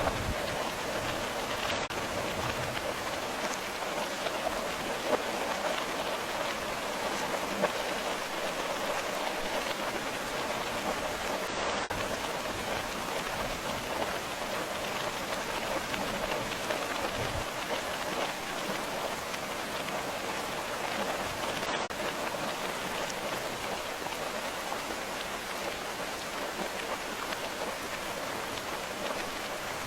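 Steady rain falling, an even continuous patter of drops on a surface.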